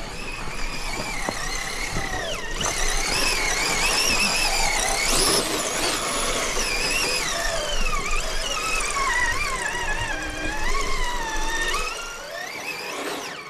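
Electric motor and gear drive of a class 2 scale RC crawler whining under throttle, its pitch wavering up and down as the truck crawls. A low hum underneath drops away near the end.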